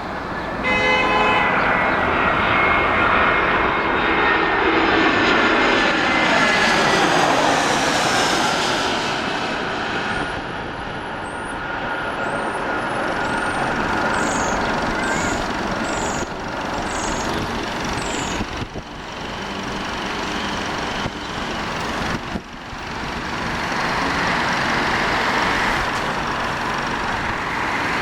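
Jet airliner passing close on its landing approach, the engines' whine sliding down in pitch as it goes by, followed by a long steady rush of engine noise that swells again near the end. A row of faint high chirps sounds midway through.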